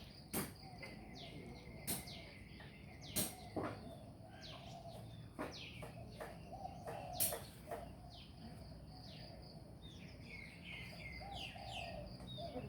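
Small birds chirping outdoors: many short, quick, downward-sliding chirps that come thicker near the end, with a few sharp clicks in between and a thin steady high tone in the background.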